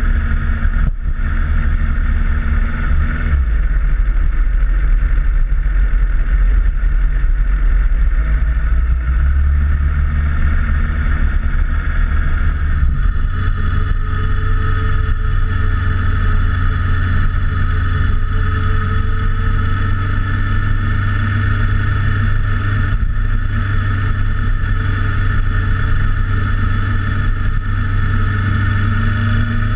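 Motorcycle engine running steadily under way, its low note stepping to a new pitch a few times in the first half, then holding.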